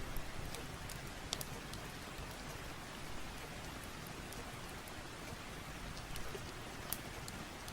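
Steady rain, an even hiss with scattered sharp ticks and pops of drops landing.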